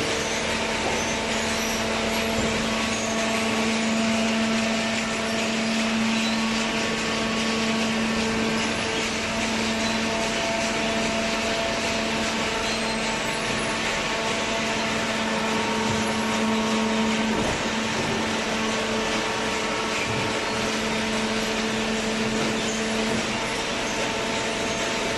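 Cardboard shredding and baling machinery running steadily: a continuous mechanical noise with a steady hum, the lower part of which fades near the end.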